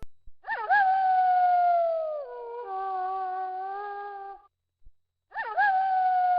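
Wolf howling: two long, drawn-out howls, each opening with a quick upward swoop and then sliding slowly down in pitch, the first with a step down partway through and the second beginning about five seconds in.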